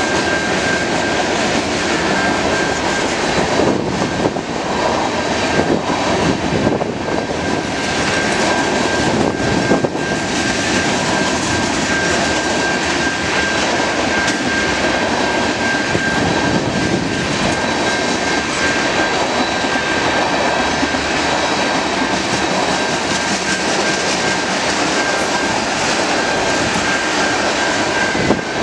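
Mixed freight cars (covered hoppers, tank cars, boxcars and autoracks) rolling past at a level crossing, a continuous roar of steel wheels on rail. A thin high tone rings over it throughout.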